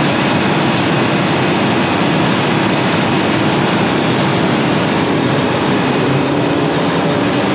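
Large diesel engine running steadily at a constant speed, with a low, even drone and no breaks.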